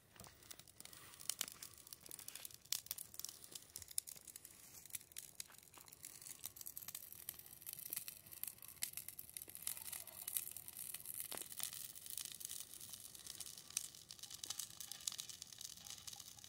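A newly lit fire crackling faintly as it catches dry material, with scattered sharp pops and crackles that come more thickly after the first few seconds.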